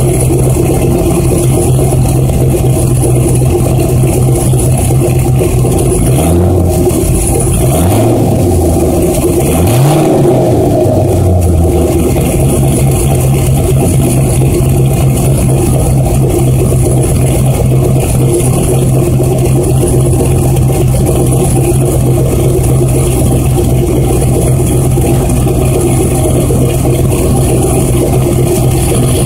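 Pontiac GTO V8 with an SLP Loud Mouth exhaust and no catalytic converters idling loudly after a cold start. It is revved briefly a few times about a quarter of the way in, each rev rising and falling, then settles back to a steady idle.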